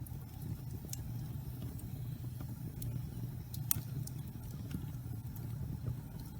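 Wood fire burning in a fireplace, damp pine logs crackling: a steady low rumble of the flames under scattered sharp pops, the loudest a little past halfway.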